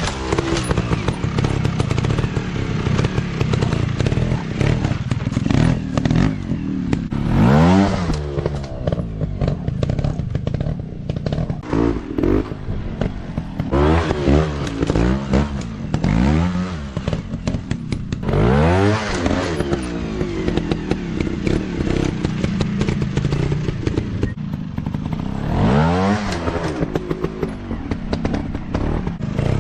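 Off-road dirt bike engines revving in repeated bursts, the pitch climbing and dropping sharply every couple of seconds, over a running engine with clattering and scraping.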